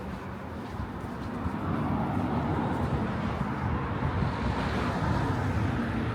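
Street traffic with a motor vehicle passing close by: the noise swells about a second and a half in, holds, and eases off near the end.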